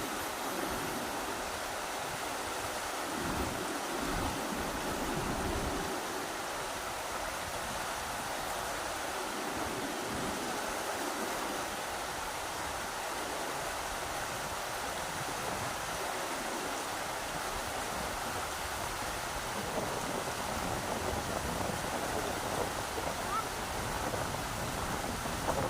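Rushing river water, a steady hiss of flowing water, with gusts of wind rumbling on the microphone now and then.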